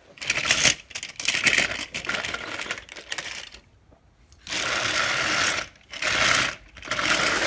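Small battery-powered toy train motor running, its gears and wheels rattling along plastic track, stopping and starting several times with a short pause about halfway.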